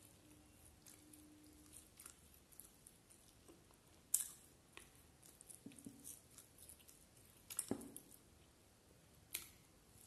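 A person eating by hand, close to the microphone: quiet chewing and wet mouth smacks, with scattered small clicks. The loudest smacks come about four seconds in, near eight seconds, and again just before the end.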